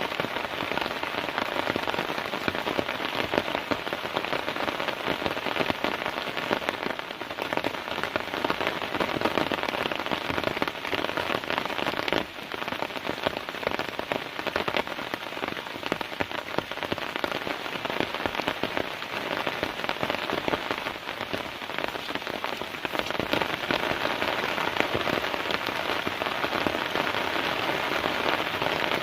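Heavy, steady rain: a dense, unbroken patter of drops striking close to the microphone.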